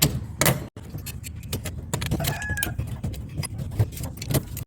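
Metal parts of a microwave oven magnetron clicking, knocking and scraping as they are pried apart by hand, with tight-fitting plates resisting. The clicks are irregular, several a second, over a steady low hum.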